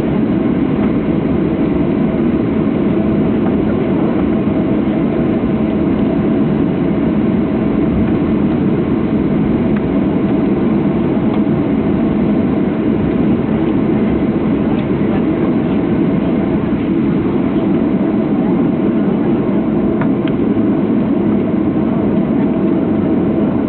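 Steady cabin noise inside a Boeing 737-700 taxiing after landing: a low, even rumble from its CFM56-7B engines at idle and the airframe, with a faint steady hum and a few light clicks.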